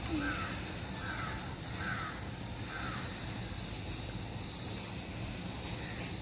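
A bird calling: four short calls about 0.8 s apart in the first three seconds, over a steady low hum.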